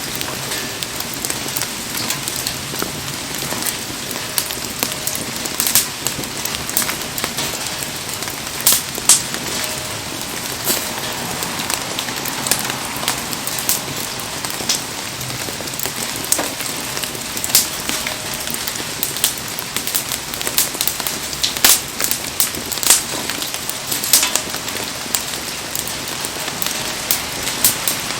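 Heavy rain falling steadily on the surroundings of a wood campfire, an even hiss with many sharp snaps and drips scattered throughout; the fire crackles faintly beneath the rain.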